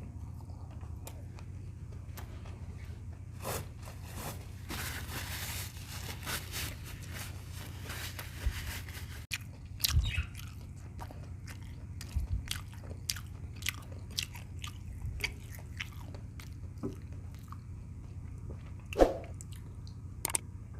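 A person chewing and biting food close to the microphone, with frequent short mouth clicks and smacks over a steady low hum.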